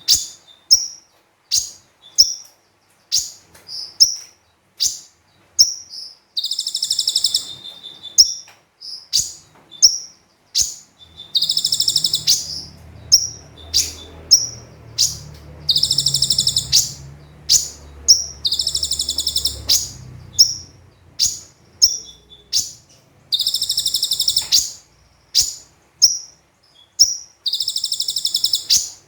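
Kolibri ninja sunbird song: sharp high chirps repeated about once or twice a second, broken every few seconds by buzzy, high trills about a second long.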